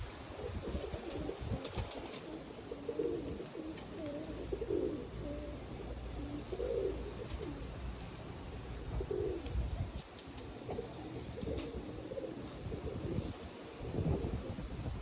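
Pigeons cooing again and again, low warbling calls, over the steady rumble of wind on the microphone.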